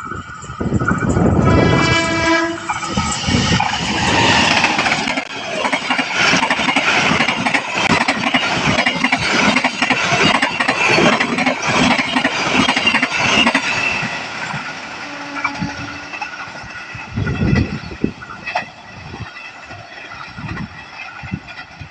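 A train sounding its horn briefly about two seconds in, then rushing past at speed with loud rumble and wheel clatter that fades after about fourteen seconds.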